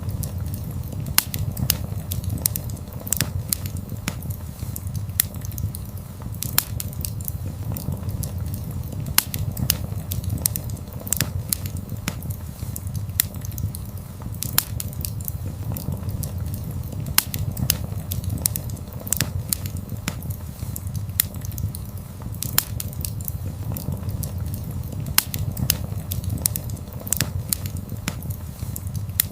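Wood fire burning steadily, with a low, even rumble of the flames and frequent sharp, irregular crackles and pops from the burning wood.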